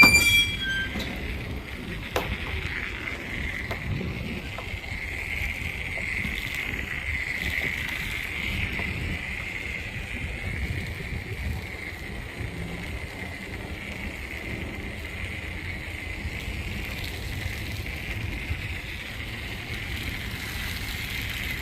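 Self-serve car wash spray wand running, a steady hiss of spraying water with a low rumble under it. At the very start there is a brief, louder string of short high tones that step down in pitch.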